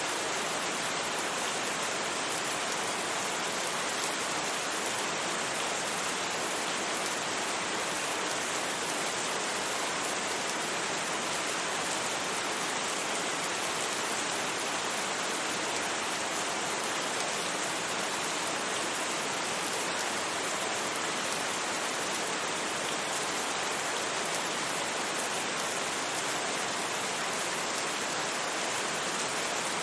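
Steady rain falling: an even, unbroken hiss with no thunder and no separate drips or drops standing out.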